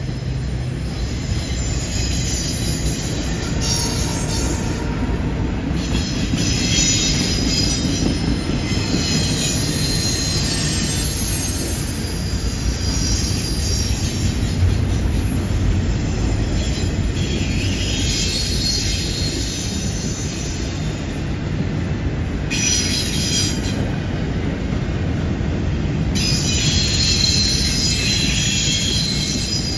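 Double-stack container well cars of a freight train rolling past with a steady rumble, their wheel flanges squealing on the curve in high tones that come and go several times.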